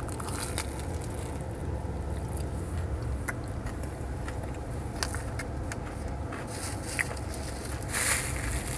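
Chewing and small mouth clicks while eating a crispy potato-coated cheese corn dog, over a steady low hum inside a car. A short paper-napkin rustle comes near the end.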